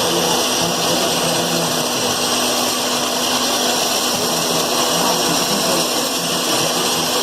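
Sikorsky S-70A Black Hawk helicopter's twin turboshaft engines running, a steady turbine whine and rush.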